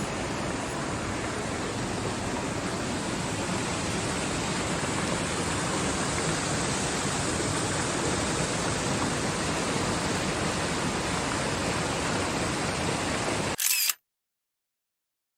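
Steady, even rush of falling water from a waterfall. Near the end it cuts off abruptly into dead silence.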